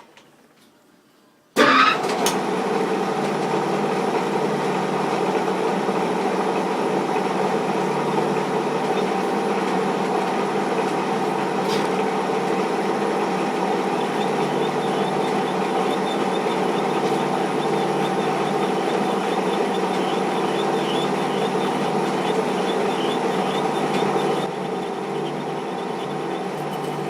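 Metal lathe switched on about a second and a half in, its motor and gearing then running steadily with a constant hum; the level drops a little near the end.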